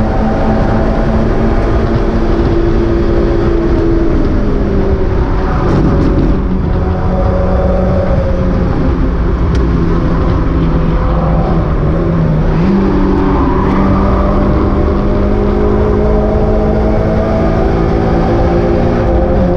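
Mazda MX-5 race car's engine running hard at steady high revs, heard from on board. The pitch falls about four seconds in, dips and then jumps up around two-thirds of the way through, and dips again near the end.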